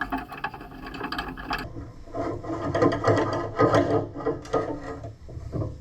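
Irregular clicking, rattling and rubbing of hand-tool work on the tractor's parts, in quick, uneven strokes.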